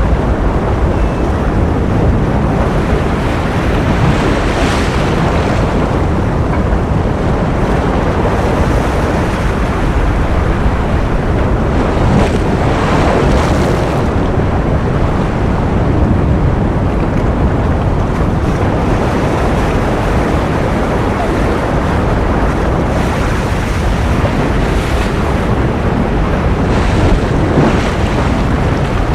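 Ocean surf: a steady, dense wash of waves, with a few brighter surges as swells break.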